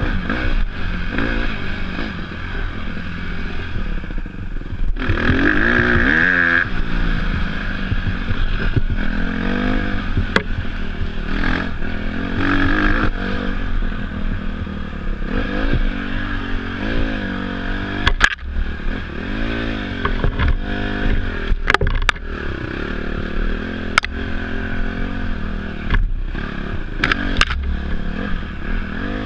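Dirt bike engine revving up and down again and again while being ridden, with clatter and several sharp knocks in the second half.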